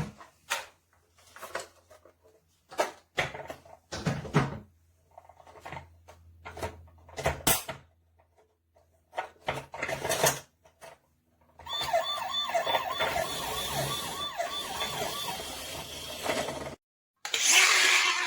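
Toy emergency vehicles clicking and knocking as they are handled, then, about twelve seconds in, a toy's electronic siren sounding for several seconds with a fast, repeating wail.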